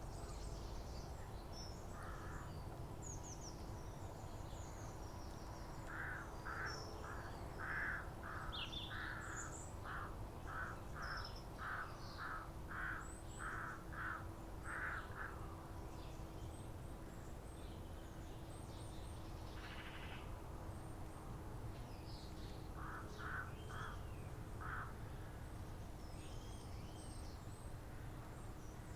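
Countryside bird calls. One bird gives a long run of repeated calls, a little over one a second, starting about six seconds in, and a shorter run of four calls later. Small birds chirp high-pitched throughout over a low, steady rumble.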